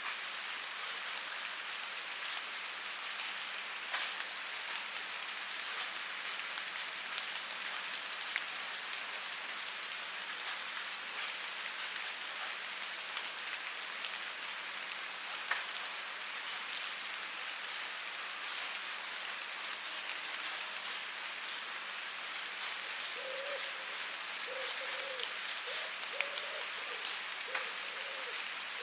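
Steady rain falling, an even hiss with louder single drops ticking now and then.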